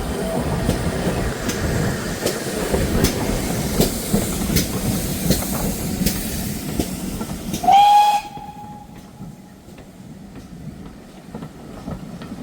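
A train running by with a loud rush and regular clicks of wheels over rail joints, then a short whistle blast about eight seconds in, after which the train sound drops away sharply.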